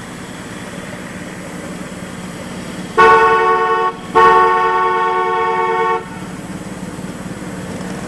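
Miniature railway locomotive sounding its whistle twice, a short blast and then a longer one, each a steady tone made of several pitches together.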